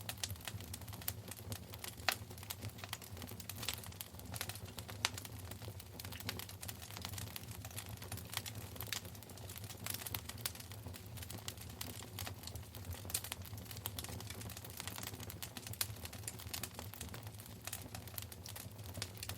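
Wood fire in a fireplace crackling, with dense, irregular sharp pops and snaps over a low steady hum.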